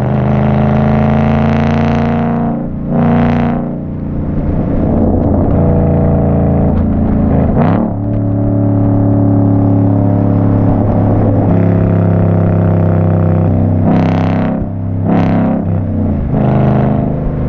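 2014 Mustang GT's 5.0 Coyote V8 running through an aftermarket exhaust, holding a steady note. Short surges break it about three seconds in, about eight seconds in, and twice near the end.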